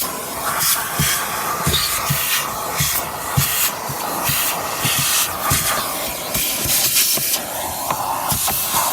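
Vacuum cleaner running with a nozzle attachment being worked over a car's interior. The rush of air swells and fades as the nozzle moves, with short light knocks of the nozzle against the surfaces.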